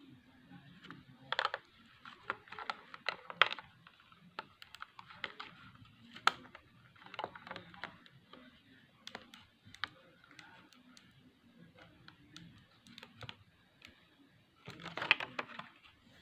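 Scattered small clicks and taps with short bursts of rustling as earphone packaging and the wired earphones are handled; the loudest rustling comes near the end.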